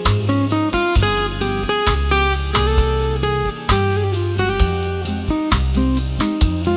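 Smooth jazz background music: plucked guitar notes over a moving bass line.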